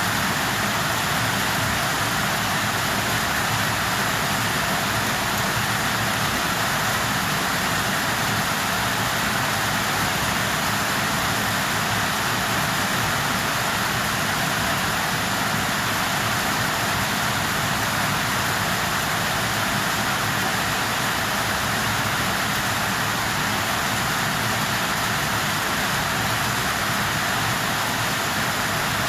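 Steady, unchanging hiss of noise with no rhythm or separate events, loudest in the middle range.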